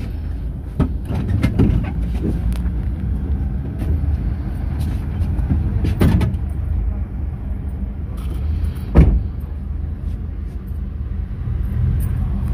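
Mercedes-Benz Sprinter minibus on the move, heard from inside the cabin: a steady low engine and road rumble, with short knocks and rattles from the body, the loudest a thump about nine seconds in.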